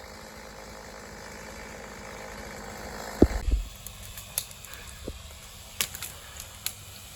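Tree-clearing work: a steady rushing noise swells for about three seconds and ends in one heavy thud as something drops, followed by scattered light knocks and clicks.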